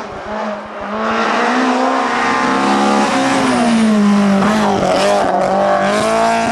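Rally car engine running at high revs. The pitch dips and climbs back several times as the driver lifts off, changes gear and gets back on the throttle.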